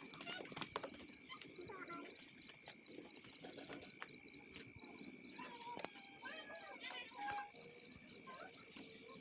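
Outdoor rural ambience: a steady, rapidly pulsing high trill like an insect runs throughout, with scattered bird chirps and a short animal call about 7 seconds in.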